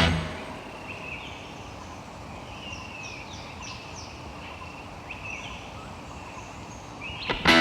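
Birds calling over a steady forest background hiss: a run of short, high chirps, some sliding down in pitch, repeated over several seconds.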